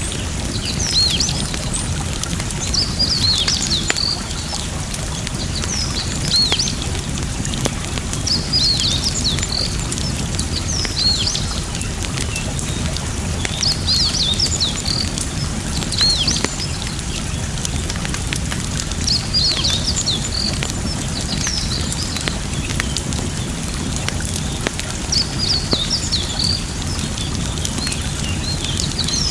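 Campfire crackling with scattered sharp pops over a steady rush of flowing water, while birds sing short bursts of high chirps every five or six seconds.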